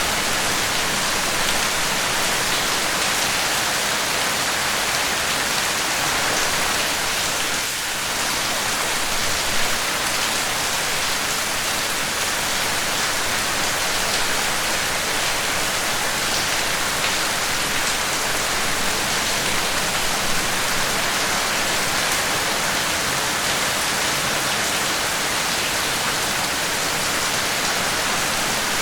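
Steady, dense rainfall, an even hiss of drops with faint individual ticks of raindrops striking a surface.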